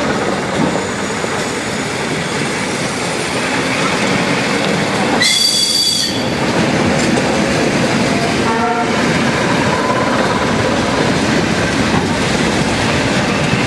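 Russian electric commuter train (elektrichka) passing close by: a steady rumble and clatter of its wheels and motors, with a brief loud high-pitched shriek about five seconds in.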